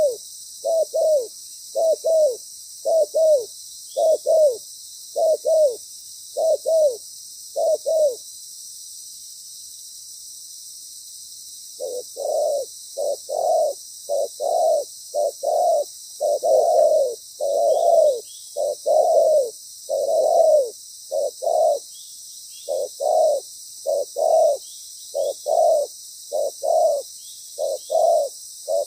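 Spotted dove cooing, loud, in a long run of short repeated coo notes. The cooing stops about eight seconds in and starts again about four seconds later, coming faster after that.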